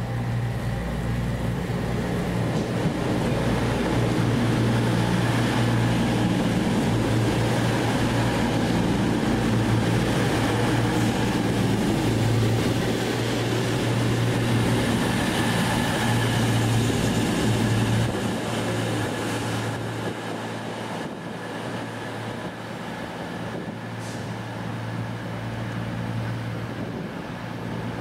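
A train running at the station: a steady low hum over a broad rumble, building over the first few seconds and falling away somewhat at about 18 seconds.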